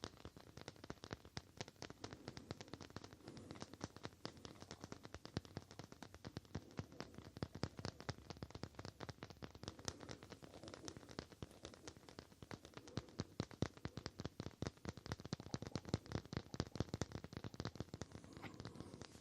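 Fingers tapping rapidly on an object: a continuous run of quick, light, crisp taps, many each second.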